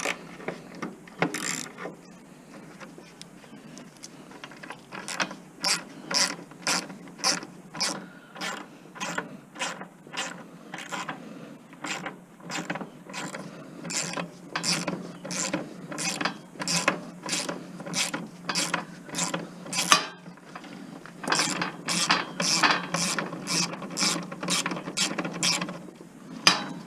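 Hand ratchet clicking in steady repeated strokes as fasteners are backed out of a table saw being scrapped, a few clicks a second; it stops briefly about twenty seconds in, then resumes.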